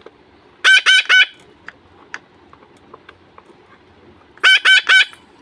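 Parrot screeching: two bursts of three quick, loud, high-pitched calls, one about a second in and one near the end.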